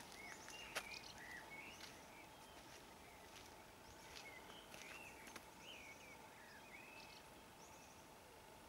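Faint chirping of small birds: short, curving notes repeated every half second or so, over a quiet background. A single sharp tap sounds about a second in.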